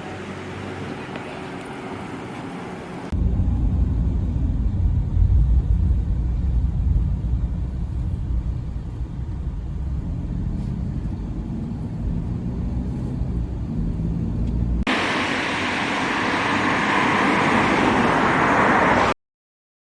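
Train running noise in three abruptly cut sections: a moderate rumble, then a loud low rumble, then a brighter rushing noise that stops suddenly near the end.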